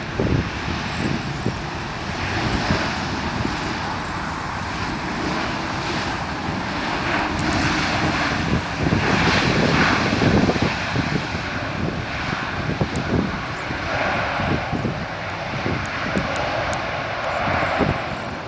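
Airbus A220-300 with Pratt & Whitney PW1500G geared turbofan engines landing: a steady jet rush that grows loudest about halfway through, then eases off.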